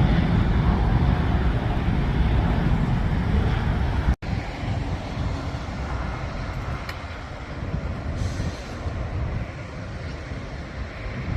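Jet airliner's engines at take-off thrust: a deep, steady rumble that slowly fades as the plane climbs away, broken by a momentary cut-out about four seconds in.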